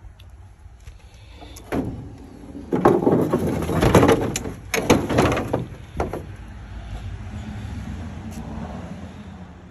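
A road vehicle passing by: a low rumble builds, is loudest in the middle with a few loud surges, then fades away slowly.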